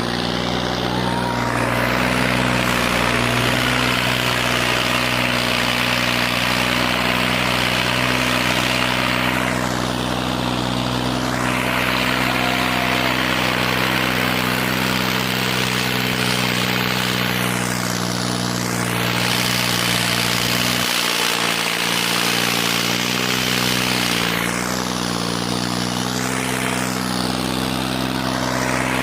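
Tractor diesel engine running steadily at constant revs, a loud even drone with a noisy rush above it. The lowest part of the sound drops away briefly about two-thirds of the way through.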